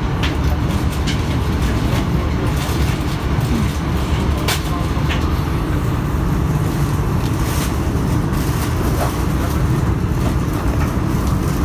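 Alstom Régiolis electric multiple unit running on the line, heard from inside the passenger cabin: a steady low rumble with a few sharp clicks, the loudest about four and a half seconds in.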